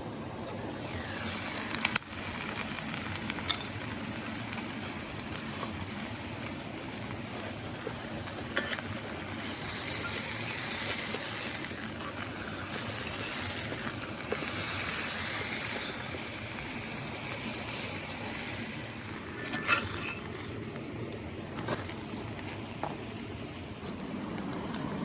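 Meat frying in a hot pan over a fire, the sizzle swelling and easing in several waves, with a few light clicks and taps.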